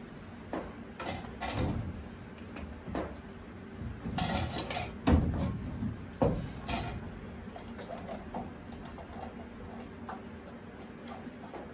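Metal clatter and knocks from a hot water heater's water line being bent and worked into line with its fitting, in irregular bumps. The loudest knock comes about five seconds in, with another sharp one a second later, then the handling gets quieter.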